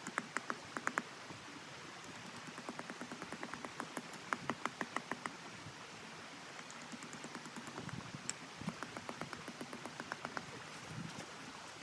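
Wood fire crackling, with sharp pops and snaps in irregular clusters over a steady hiss.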